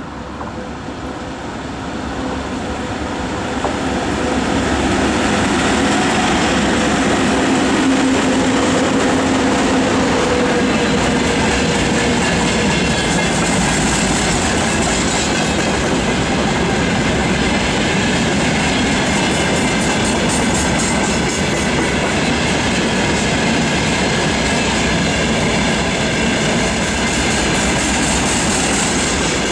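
VL80S twin-section electric locomotive hauling a freight train, growing louder as it nears and passes about four seconds in, then the steady rolling noise of a long string of loaded gondola wagons running past on the rails.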